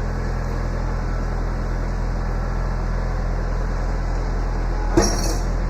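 Tractor engine idling steadily, with a single sharp metallic knock about five seconds in.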